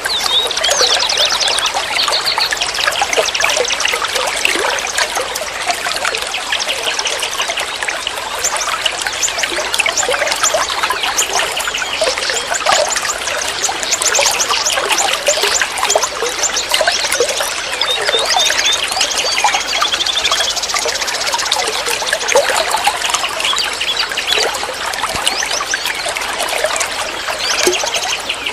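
Flowing water trickling and gurgling steadily, a dense splashing babble with no pauses.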